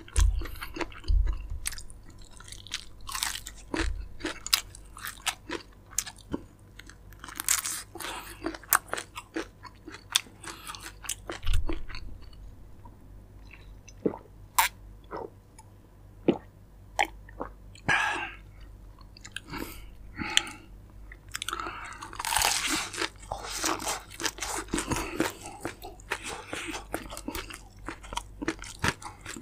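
A person biting and chewing crispy fried chicken close to the microphone, with many sharp, irregular crunches of the fried coating. A longer, noisier stretch of crunching comes about three-quarters of the way through.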